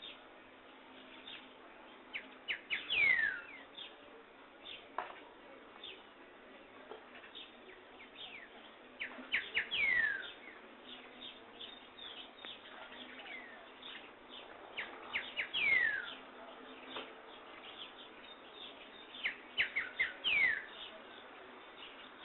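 Songbirds singing: one bird repeats a phrase of a few short notes ending in a falling whistle, four times about every six seconds, over scattered faint chirps of other birds and a steady hiss.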